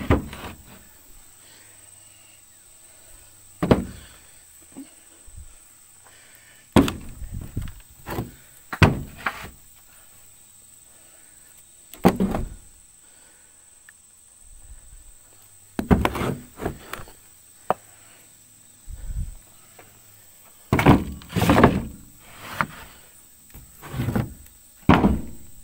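Bricks being handled and set down: dull thuds and knocks at irregular intervals, some coming two or three in quick succession.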